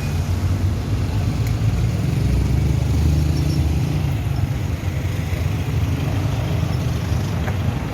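Motor vehicle traffic running past, a steady low rumble that swells slightly a couple of seconds in.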